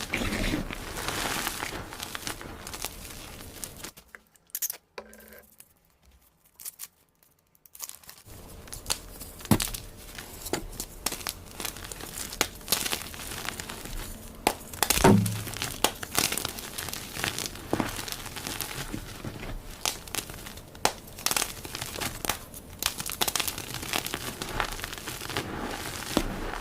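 Blocks of dyed gym chalk being crushed, a dense crisp crunching and crackling with sharp snaps. It stops for a few seconds of near silence about four seconds in, then resumes.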